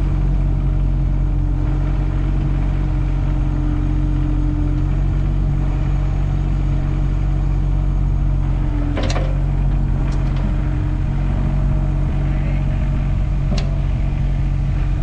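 An engine running steadily at an even speed, with two sharp knocks about nine and thirteen and a half seconds in.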